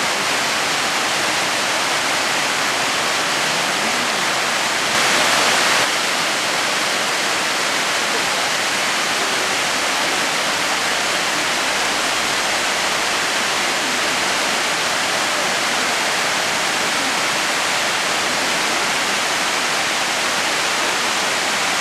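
Oshinkoshin Falls: the waterfall's water pouring down in a steady, dense rush, briefly a little louder about five seconds in.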